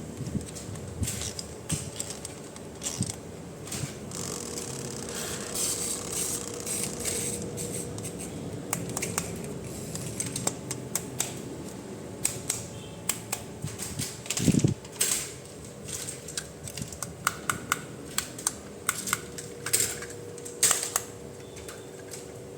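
Hard plastic toy pieces and packaging being handled: an irregular run of small clicks, taps and knocks with some rustling, over a faint steady hum.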